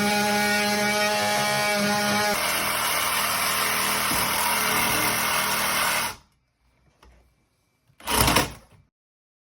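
A power tool running: a steady pitched motor hum that turns rougher and noisier about two seconds in, then cuts off about six seconds in, with one more short burst near the end.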